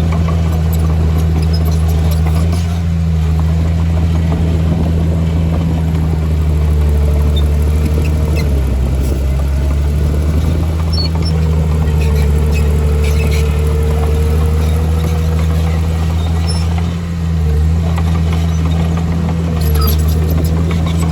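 Diesel engine of a heavy earthmoving machine running steadily under load, with a higher whine above it that comes and goes and short dips in engine note about nine and seventeen seconds in.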